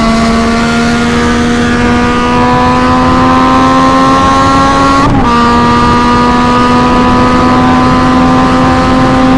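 Yamaha MT-09's inline three-cylinder engine with the exhaust end can removed, loud and raw, pulling steadily through a gear as its pitch climbs slowly. It shifts up about halfway, and again near the end.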